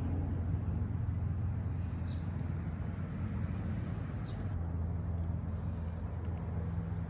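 Steady low mechanical hum, like an idling engine or running machinery, with a few faint ticks over it.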